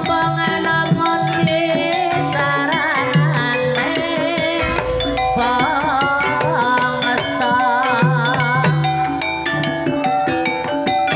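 Banyumasan gamelan playing a tayub gending: metal mallet instruments striking a dense melody over kendang hand-drum strokes and low gong-like notes. From about two seconds in until past the eight-second mark, a wavering melodic line with strong vibrato rises above the ensemble.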